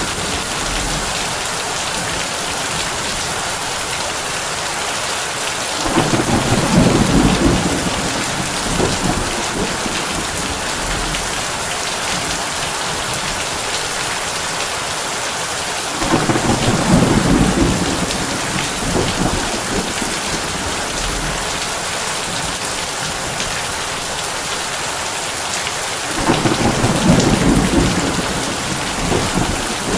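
Heavy rain drumming steadily on a tin roof. Three low rumbles of thunder, each about two seconds long, come at even intervals about ten seconds apart.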